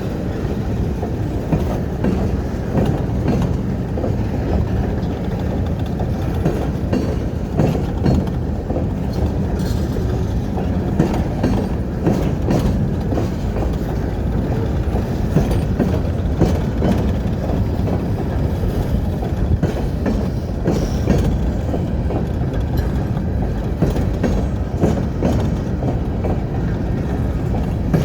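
Hudson Bay Railway train rolling past close by: a steady heavy rumble of cars on the rails with irregular clacks and knocks from the wheels and couplers.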